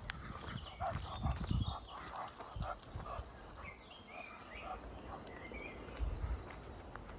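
Footsteps on a walk, a rhythmic patter of steps, with low rumbles near the start and again about six seconds in.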